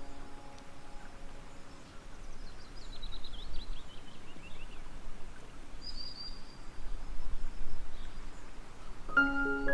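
Small birds chirping over a steady outdoor background hiss, with a quick descending trill about three seconds in and a short call at about six seconds. A held musical note fades out at the start, and a glockenspiel-like mallet melody begins near the end.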